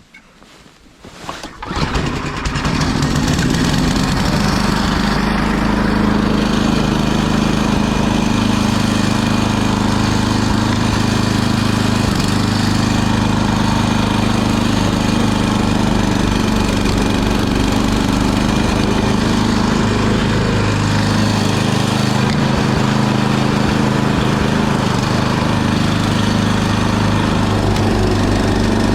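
Gas snow blower engine being started: a few brief knocks, then it catches about two seconds in and runs steadily.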